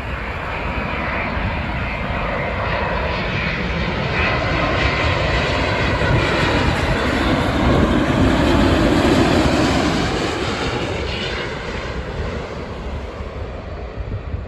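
Boeing 787-8 airliner coming in to land, its jet engines' rushing noise building to a peak about eight seconds in and then fading away.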